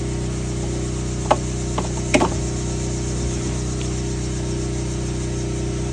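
A steady, low mechanical hum like an idling engine, with a few short knocks or clinks about a second or two in.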